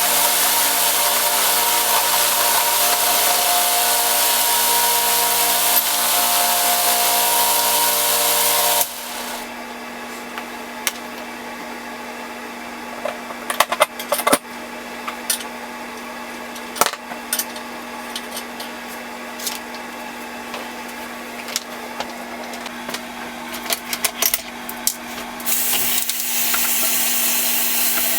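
A power tool working on metal for about the first nine seconds, then stopping. Scattered clicks and knocks of parts being handled follow over a steady hum, and the tool starts again near the end.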